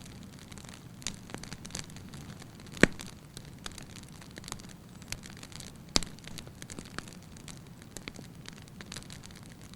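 Wood fire burning in a fireplace: a low steady rumble of flames with irregular crackles and pops from the logs, two of them sharply louder, about three and six seconds in.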